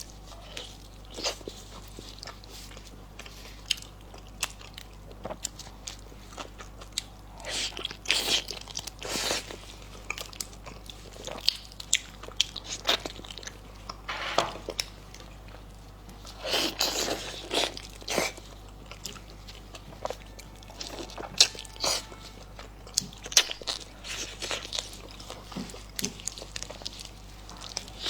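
Close-miked mukbang eating: wet chewing, lip smacks and sharp mouth clicks while gnawing the gelatinous skin and tendon of braised lamb trotters, with several longer, louder wet stretches.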